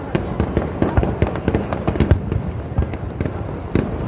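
Fireworks going off in quick succession: a dense run of irregular bangs and crackling pops, several a second, over a continuous low rumble.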